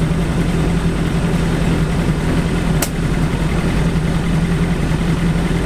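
BAC Mono's four-cylinder engine idling steadily with an even low hum, with one light click about three seconds in.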